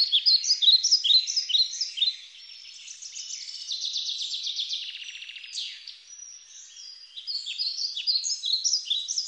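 Birds singing: many quick, high falling chirps and buzzy trills overlapping, loudest in the first two seconds and again near the end.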